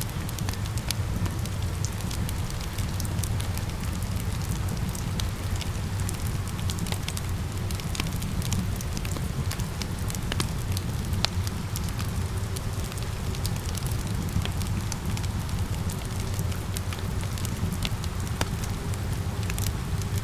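Wood fire crackling with frequent sharp pops over a steady low rumble, mixed with a constant hiss of rain.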